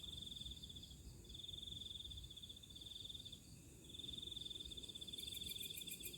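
Faint night chorus of calling insects and frogs: a high trill that comes and goes in bouts of about a second, with a fast, even, very high pulsing that stops at the start and comes back near the end.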